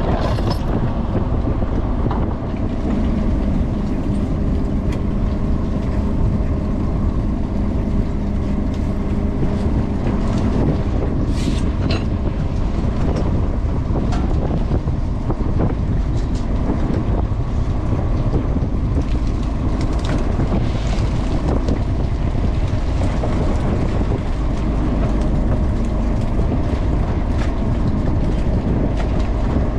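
Bottom trawler's engine running steadily, with a low hum standing out for about ten seconds, then fading back, and scattered knocks over it.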